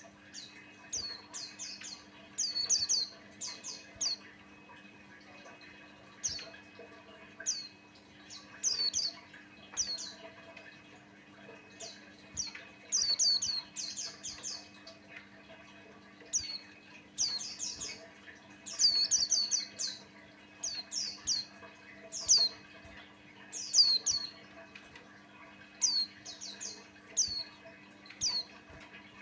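White-eye (pleci) singing: quick clusters of short, high chirps that mostly slide down in pitch, repeated every second or two, over a faint steady hum.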